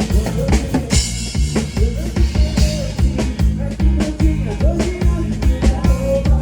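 Live band playing: a drum kit keeps a steady beat over a bass line, with a melody running above.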